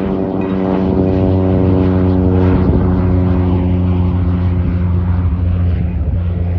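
Propeller aircraft engine running loud and steady with a deep drone, growing to its loudest about two to three seconds in, then easing slightly.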